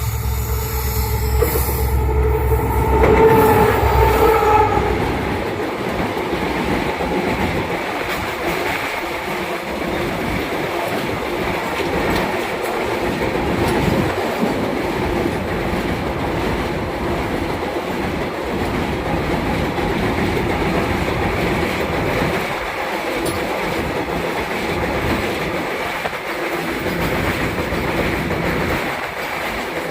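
WDG4 diesel-electric freight locomotive's 16-cylinder two-stroke engine running deep as it passes, with its multi-note horn sounding for a few seconds near the start. After that, a long rake of goods wagons rolls by with a steady rumbling clatter and clickety-clack of wheels over rail joints.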